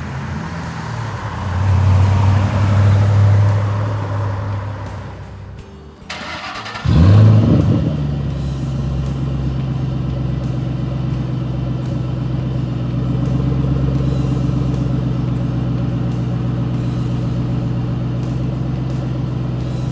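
2007 Ford Mustang GT's 4.6-litre V8 engine: it runs up and settles in the first few seconds, then about seven seconds in it cranks and fires with a brief loud flare of revs and settles into a steady idle.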